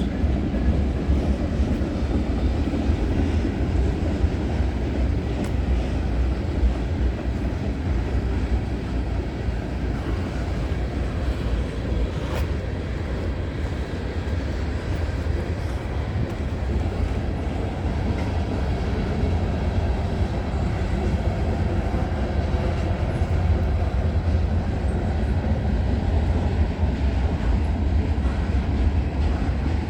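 CN freight train's cars rolling past at close range, a steady rumble of wheels on rail.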